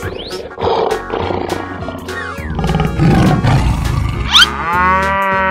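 Big-cat roar sound effects over cartoon background music: a low growling roar, loudest about three seconds in. Near the end come a quick rising whistle and a held, pitched call.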